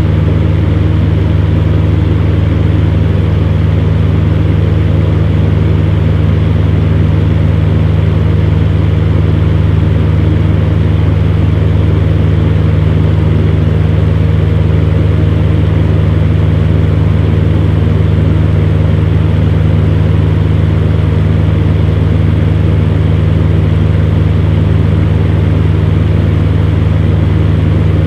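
Electric fan heater running steadily: a constant low motor hum with an even blowing hiss over it.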